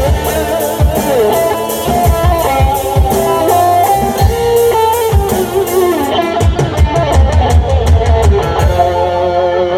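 Live band playing an instrumental interlude: a gliding melodic lead line over drums and bass, with no singing. Near the end the cymbals drop out.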